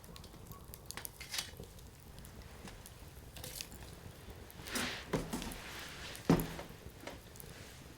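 Firewood burning in a Coleman Fire Disc, crackling with scattered small pops, a brief hissing flare-up about five seconds in, and one sharp loud pop a little after six seconds.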